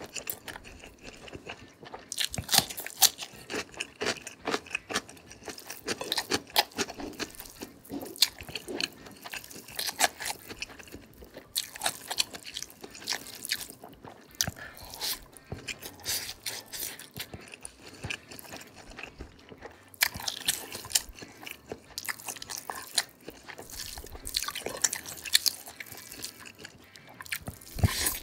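Close-miked mouth sounds of eating cocktail sausages with rice: wet chewing, biting and crunching, with many small irregular clicks and smacks and a few short pauses.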